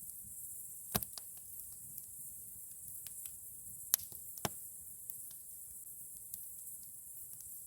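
Wood campfire crackling: irregular sharp pops and snaps, the loudest about a second in and twice around four seconds in, over a steady hiss.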